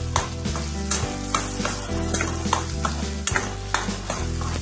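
Sisig frying in a hot pan while a spatula stirs it: steady sizzling with frequent short scrapes of the spatula against the pan.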